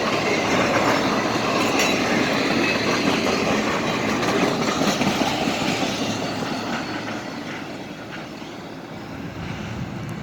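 Norfolk Southern train 221's cars rolling past on the rails, the sound loud at first and fading after about six seconds as the train moves away.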